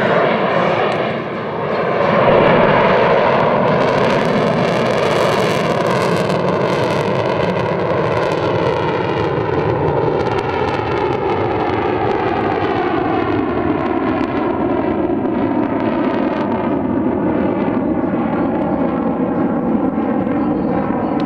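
Two F-16 fighter jets flying past in afterburner: loud, steady jet engine noise whose tones slowly fall in pitch as they pass, with a brief dip in loudness about a second in.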